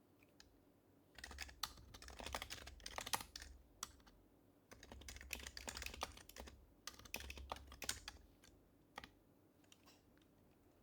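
Typing on an HHKB Professional HYBRID Type-S keyboard with its silenced Topre switches: three quick runs of keystrokes, then a few single key presses near the end.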